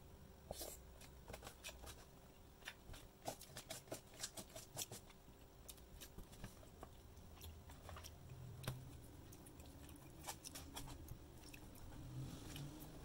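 Faint close-up chewing of a mouthful of rice and meat: a run of small wet mouth clicks, densest in the first five seconds and again about ten seconds in.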